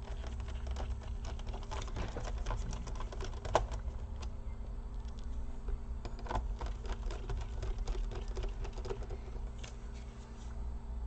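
Rapid small clicks and ticks of a hand screwdriver driving small screws into a laptop's plastic casing, in two runs, over a steady low hum.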